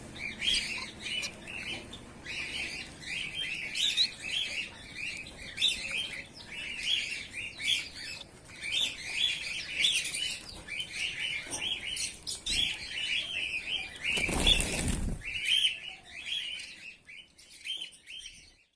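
A colony of Bengalese finches chirping, with many short, high calls overlapping several times a second. A brief loud rustle or bump, about a second long, cuts in about three-quarters of the way through.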